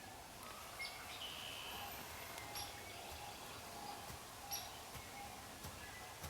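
Small songbirds chirping and calling over a faint woodland background, with a few soft low thumps in the second half that come closer together near the end.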